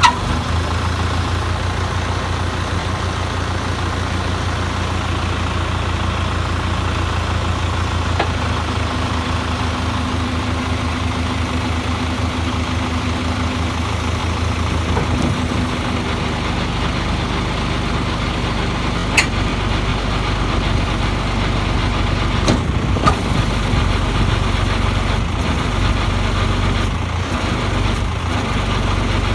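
Truck engine idling steadily, with a few sharp knocks or clanks about two thirds of the way through.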